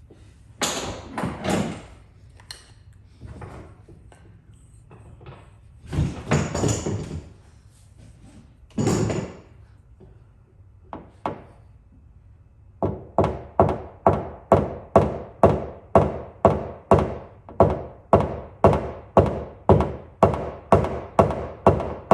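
Tapping down a high spot in a car body panel during paintless dent repair: a knockdown tool struck with a hammer in a steady run of sharp taps, about two to three a second, starting about halfway through. Before that there are a few short, irregular scraping or rustling noises.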